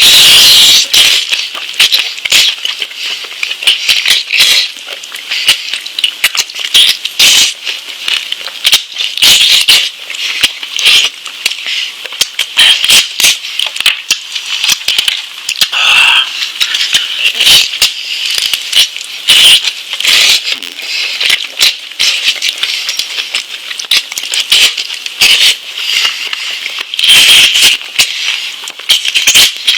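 Close-miked chewing and mouth sounds of a person eating lamb meat: a loud, dense run of irregular clicks and smacks.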